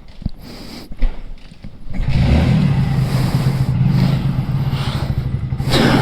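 A few knocks and clicks, then about two seconds in a motorcycle engine starts and runs on steadily at idle.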